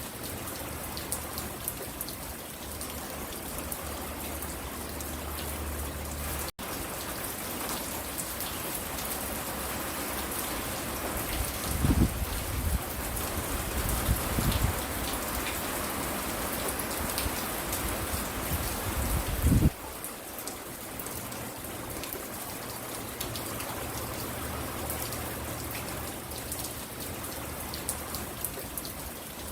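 Steady rain falling and pattering on a porch, with many fine drop ticks. In the middle stretch the rain grows a little louder and a few low thuds stand out, the last and loudest just before it drops back to the steadier patter.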